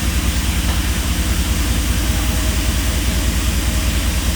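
Ford 5.0 Coyote V8 idling steadily with an even low pulse.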